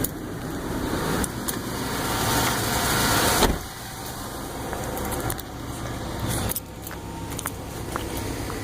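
Car engines idling in the cold, with a swelling rush of noise that cuts off suddenly about three and a half seconds in, and scattered light clicks and jingling.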